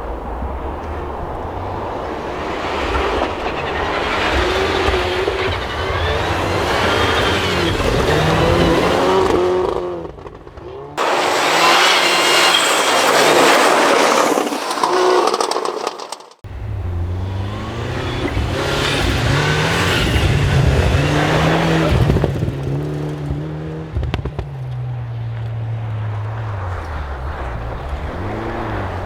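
Rally car engines on a snow stage revving up and dropping back through gear changes, passing one after another, with abrupt changes to a different car about ten seconds in and again about halfway through.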